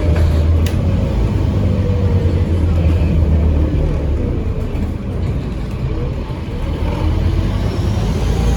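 Scania N230UD OmniCity double-decker bus heard from on board: its engine pulls under way with a strong, steady low drone and fainter tones that glide up and down. It eases off briefly a little past halfway, then builds again. A couple of short clicks come right at the start.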